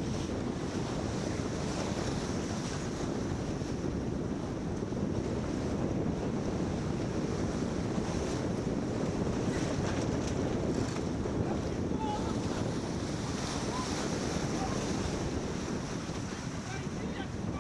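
Steady wind buffeting the microphone over water rushing and slapping along the hull of a sailboat under way.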